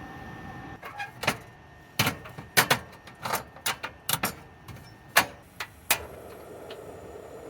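A quick, irregular run of sharp clicks and light knocks from cookware and utensils being handled and set down, starting about a second in and stopping about six seconds in.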